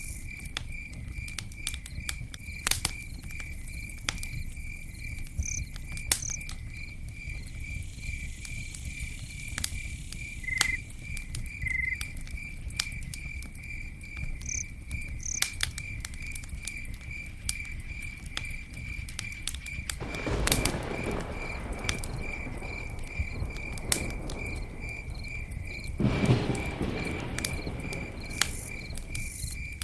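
Wood campfire crackling, with scattered sharp pops over a low rumble of the flames, while a cricket chirps steadily about three times a second. Twice, the second time near the end, a louder rushing surge swells up for a second or two.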